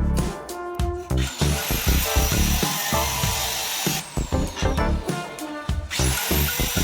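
Hand-held electric tile cutter's motor spinning up with a high whine about a second in, winding down about two-thirds of the way through, and spinning up again near the end, over background music.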